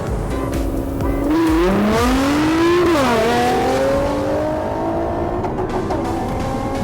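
Audi R8's 4.2-litre V8 accelerating hard: its pitch climbs, drops sharply about three seconds in as it shifts up a gear, then climbs again.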